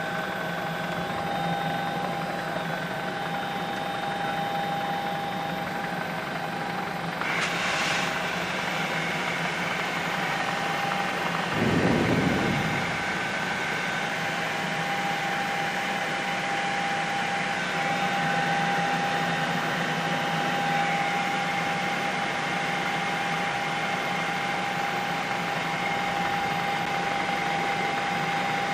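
Steady helicopter noise heard from inside the aircraft: an even engine and rotor hum with a few constant whining tones. A brief hiss comes about seven seconds in, and a short low rumble about twelve seconds in.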